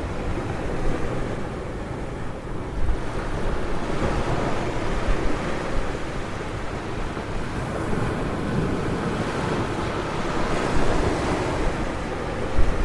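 Ocean surf breaking and washing up on a beach in slow, swelling surges, with wind buffeting the microphone.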